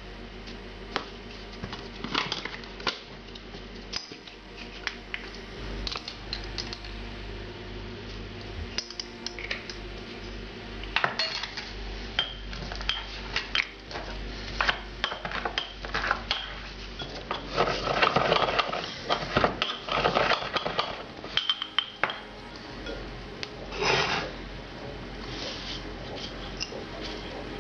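Kitchen dishes and utensils clinking, knocking and clattering as food is handled, with a busier stretch of clatter in the second half.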